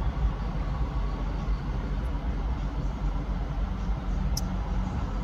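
Car with its engine running, a steady low rumble, with a brief faint click about four seconds in.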